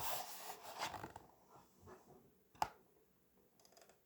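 Paper handling on a picture book, most likely a page being turned: a short paper rustle in the first second, then a single sharp tap and a few faint crinkles.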